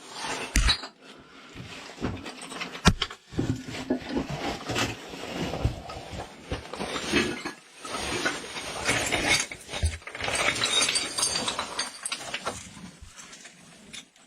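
Irregular scraping, rustling and knocks of a caver crawling through a tight rock crack, with clothing and gear rubbing on rock and a sharp knock about three seconds in.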